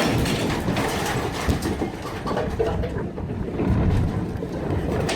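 Tsunami floodwater surging: a loud, continuous rushing rumble that swells and eases unevenly.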